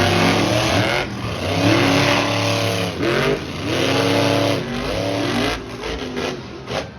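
Monster truck engines revving hard, the pitch climbing and dropping about every two seconds, fading toward the end.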